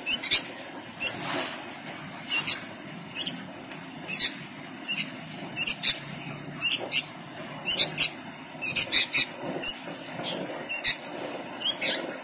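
A bird's short, high-pitched chirps, repeated about twice a second with some in quick pairs or triples, keeping up without a break.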